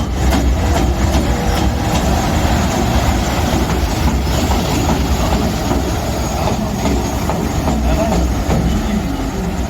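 EF210 electric locomotive moving during shunting: a steady low rumble of the train rolling, with a few wheel clicks over rail joints.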